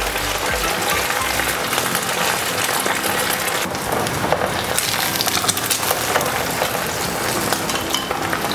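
Oil sizzling steadily in a non-stick frying pan as an egg mixture fries over a starch batter for an oyster omelette, with small crackles throughout.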